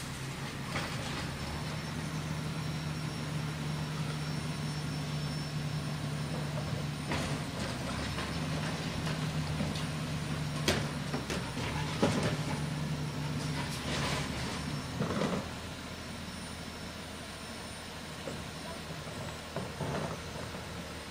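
Garbage truck engine running at a steady, raised speed, with several sharp metallic knocks and clanks; about three quarters of the way through, the engine tone drops away to a quieter idle.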